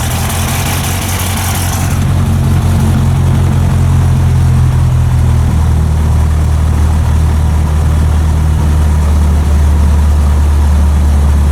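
Cessna 152's four-cylinder Lycoming O-235 piston engine and propeller running at idle just after starting, heard from inside the cabin: a loud, steady low drone, with a high hiss that dies away about two seconds in.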